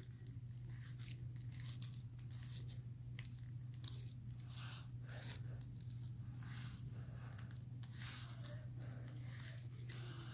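Sticky borax slime being kneaded and pulled with the fingers in a bowl: faint, irregular small clicks and squelches, with a steady low hum underneath.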